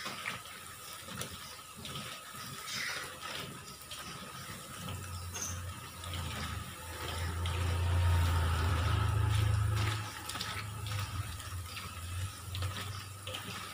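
Tofu frying in hot oil in an aluminium wok, sizzling steadily as the water cooks off it, while a wooden spatula stirs and scrapes against the pan with small clicks. A low hum swells from about five seconds in and drops away at ten seconds.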